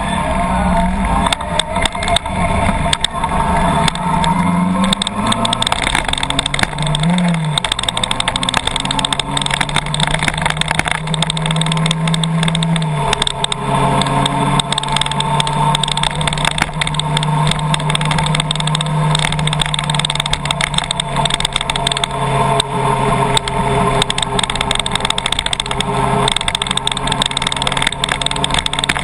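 Car engine running while driving, its low hum shifting in pitch over the first dozen seconds and then holding steady, under a dense crackling patter of heavy rain on the car.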